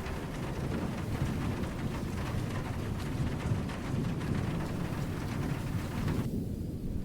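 Steady rain falling with low, rumbling thunder underneath. Near the end the rain's higher hiss briefly drops away, leaving mostly the low rumble.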